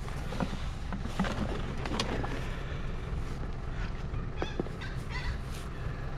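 Objects knocked and handled in a curbside scrap pile, a few short knocks and clicks over a steady low rumble, with a brief pitched call-like sound about four and a half seconds in.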